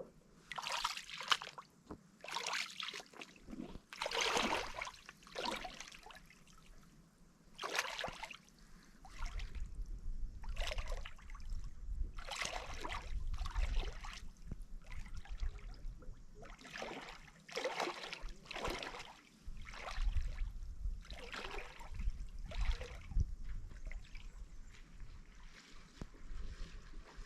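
Water sloshing and splashing in short irregular surges, about one every second or so, like small waves lapping. A low rumble comes in about nine seconds in.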